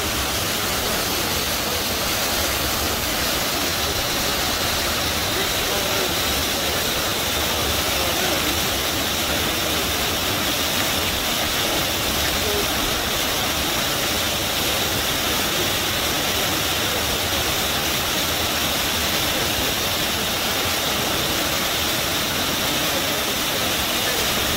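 Rushing river water gushing in a steady, unbroken wash of noise.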